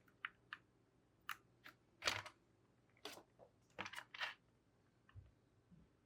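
Plastic keycaps being pressed onto mechanical keyboard switches: a scatter of light clicks and taps, about a dozen, the loudest about two seconds in and a quick cluster around four seconds, with a soft low thump near five seconds.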